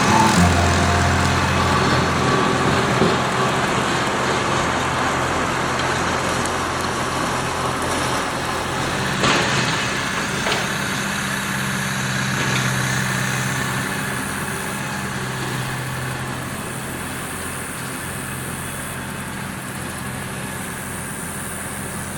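1994 Ford 7740 SLE tractor's diesel engine running steadily while bush hogging, its hum mixed with a broad mechanical rush, growing gradually quieter.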